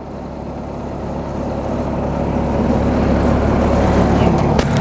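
Engine of a log-handling loader running, its level climbing steadily as it is throttled up. There is a sharp click near the end.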